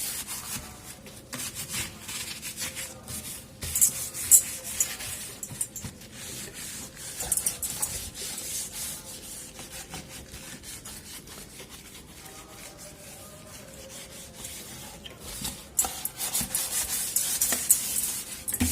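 Scrubbing a fridge's rubber door seal with a scrubber or cloth: irregular scratchy rubbing strokes, busier near the start and again near the end.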